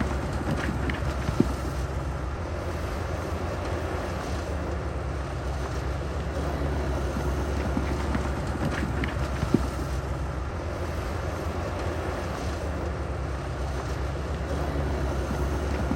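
Heavy diesel engine of earthmoving machinery running steadily, with wind noise on the microphone. Two sharp knocks stand out, one about a second in and another just past the middle.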